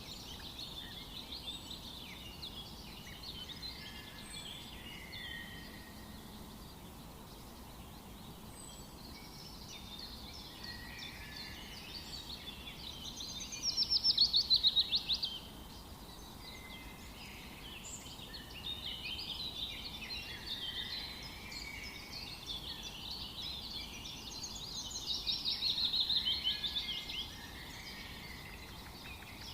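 Several birds chirping and singing in a forest over a faint steady background, with two louder rapid trills, about a third and again about seven-eighths of the way through.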